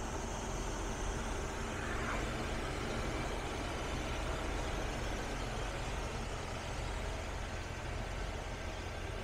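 1966 Oldsmobile 98's V8 running at a steady idle, shortly after a cold start.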